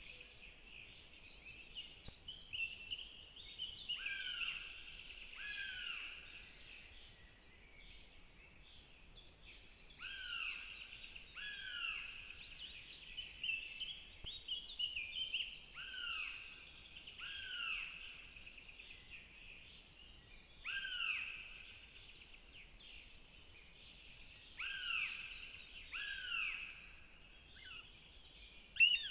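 Northern goshawk chicks begging at the nest: short, plaintive calls that sweep downward in pitch, mostly two in quick succession, repeated every few seconds. Faint high chirps of other birds sound behind them.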